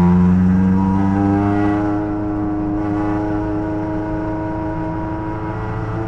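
Race car's engine heard from inside the cockpit, pulling under load with a steady note that rises gently at first, then holds almost level. It climbs a little again near the end.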